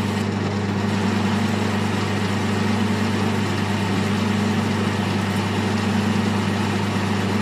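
Metal lathe running steadily with a steady hum and hiss as a parting tool cuts into the spinning workpiece under flood coolant. No chatter: the sharpened, rigidly set tool is cutting cleanly.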